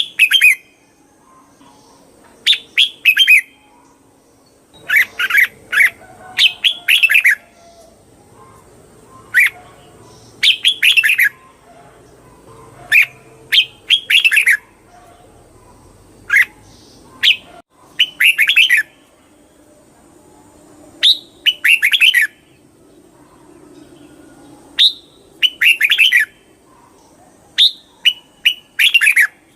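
Red-whiskered bulbul singing: short, bright phrases of a few quick notes, repeated every one to three seconds.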